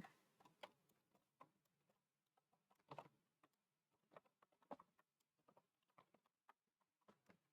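Faint typing on a computer keyboard: scattered single keystrokes at an irregular pace.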